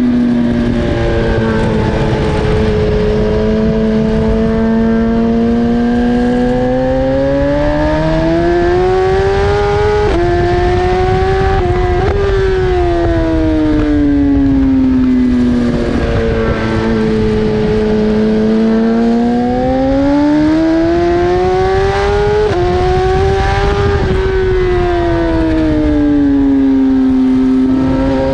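BMW S1000RR inline-four engine at race pace: it revs up hard, drops sharply in pitch on quick upshifts about ten, twelve and twenty-two seconds in, and winds down in long falling sweeps as the bike slows between the straights.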